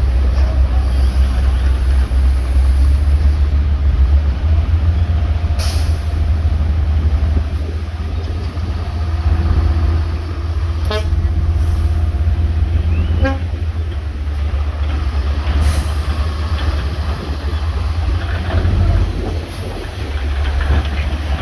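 Heavy diesel earthmoving machinery at work, bulldozers and dump trucks on a stone fill, giving a loud, steady, deep rumble. A horn-like steady tone sounds through the middle, and there are a few sharp knocks.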